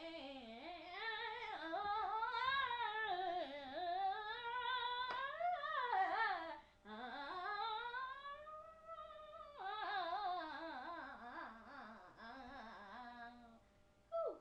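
A single voice singing a wordless, wavering melody in long sustained phrases, with pitch swooping up and down. There are short breaks about seven and ten seconds in.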